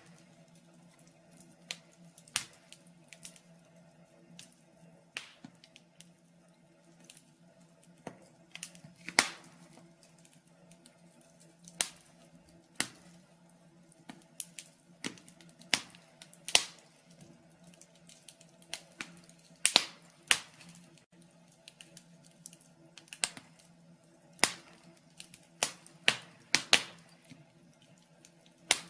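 Wood fire in a fireplace crackling, with irregular sharp pops and snaps at uneven spacing, the loudest about 9, 16 and 20 seconds in, over a faint steady hum.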